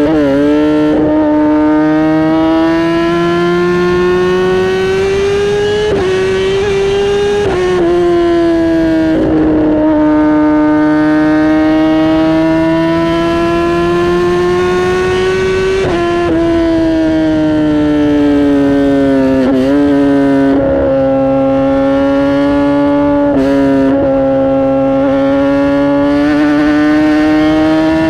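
Kawasaki ZX-10R inline-four engine and exhaust under way, its pitch rising slowly and steadily, then dropping sharply several times, as at gear changes, before climbing again.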